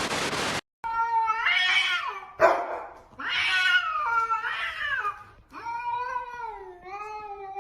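A cat yowling in three long, drawn-out, wavering calls, with a short sharp noise between the first two.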